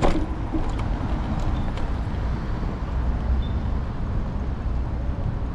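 Steady low rumble of street traffic and riding noise picked up by a camera on an electric scooter's handlebars while riding through city streets, with a few faint clicks.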